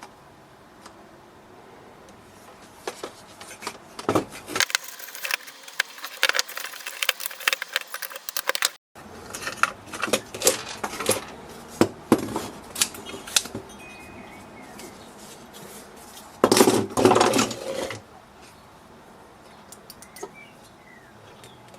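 Hard plastic and metal parts of a disassembled coffee machine being handled, with irregular clicks, clinks and rattles. A dense, loud clatter comes about three quarters of the way through.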